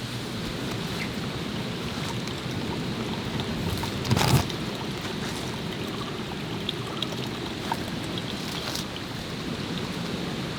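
Steady rushing of a jungle river or stream. About four seconds in, a brief louder rustle or knock rises over it.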